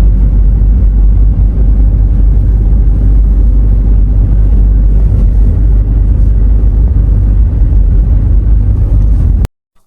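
Loud, steady low rumble that cuts off suddenly near the end.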